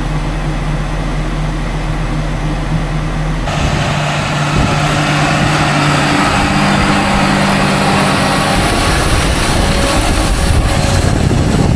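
Tractor and baling machinery running steadily. About three and a half seconds in, the sound changes abruptly to a louder, noisier machine sound with a steady hum under it.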